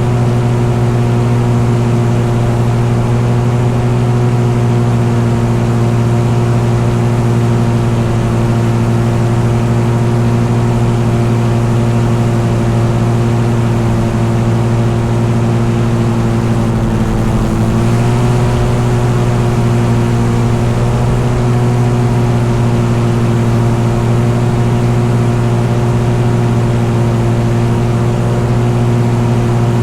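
An engine running steadily at constant speed, its pitch dipping briefly and recovering about seventeen seconds in.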